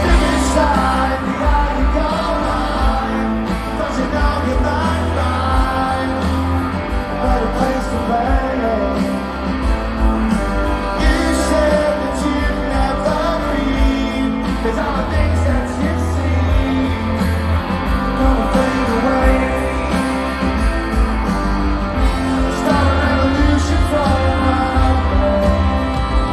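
Live rock band playing, with electric guitar, bass and drums and singing over them, loud and continuous.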